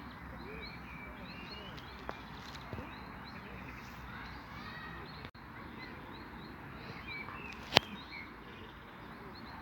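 Small birds chirping over and over against a steady outdoor background hiss, with one sharp click about three quarters of the way through.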